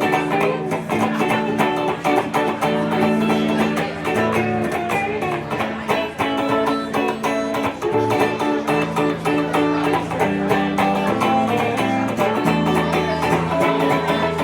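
Live rock band playing an instrumental break: a 1950s-style rockabilly electric guitar solo over the rhythm section.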